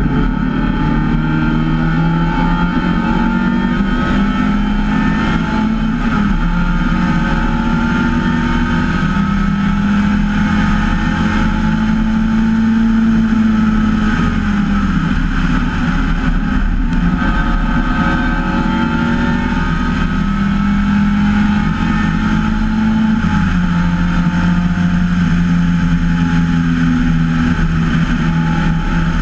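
MGA race car's four-cylinder engine running hard on a racing lap, heard from on board in the open cockpit. The engine note climbs steadily with speed, then drops sharply about 23 seconds in and begins to rise again.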